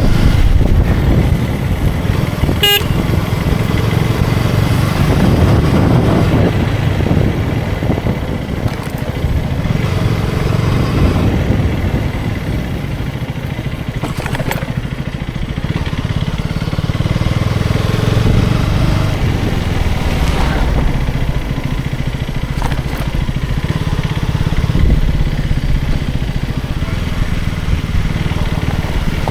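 KTM Duke 250's single-cylinder engine running steadily under way, with wind and road noise. A brief sharp sound about three seconds in.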